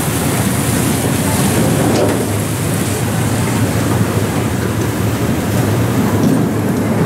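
Safari park ride train rolling along its track, a steady low running noise of the train in motion.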